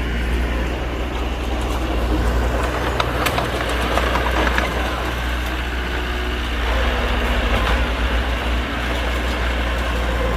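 Heavy diesel engine of earthmoving machinery running steadily, with a few sharp metallic clanks between about three and four and a half seconds in.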